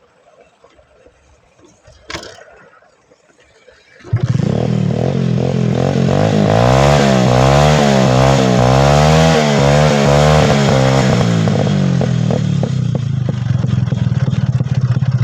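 Motorcycle engine catching about four seconds in after a short click, then revved up and down several times before settling to a lower, uneven run. It has just been washed, and the owner suspects water got into the engine, which keeps cutting out.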